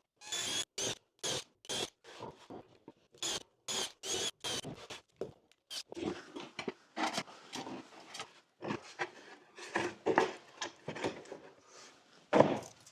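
A quick series of short scraping strokes on a wooden board, then irregular rubbing and handling noises.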